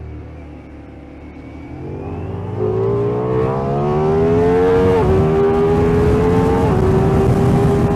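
Ducati Diavel V4 motorcycle's V4 engine easing off, then pulling hard under acceleration from about two seconds in. The pitch drops suddenly twice as it shifts up a gear, then rises again.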